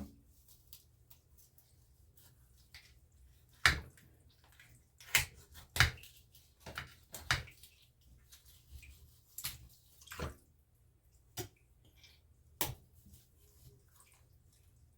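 Knife chopping through raw chicken pieces and bone on a cutting board: a string of sharp, irregularly spaced knocks, the loudest about four seconds in.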